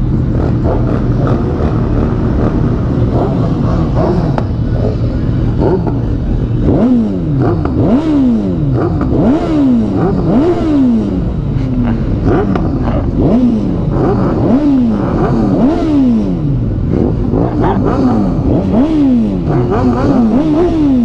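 Several sport-bike engines running together, with repeated throttle blips from about seven seconds in: each rev climbs sharply in pitch and falls back, roughly once a second, overlapping one another.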